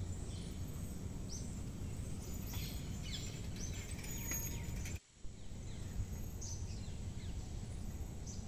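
Woodland birds calling with short falling chirps over a steady low outdoor background noise. The sound drops out for a moment about five seconds in, then resumes.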